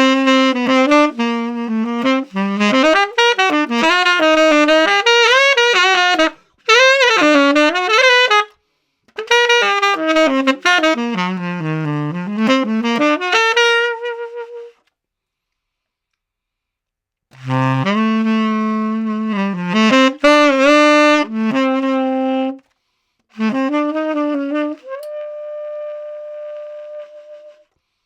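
Conn 10M tenor saxophone played unaccompanied with a Boston Sax Shop Blue Box reed, a filed cut with a thin tip and thick heart meant for a darker, classical-style tone. It plays jazz phrases with bending notes and a pause of a couple of seconds about halfway through, then closes on a long held note that fades out.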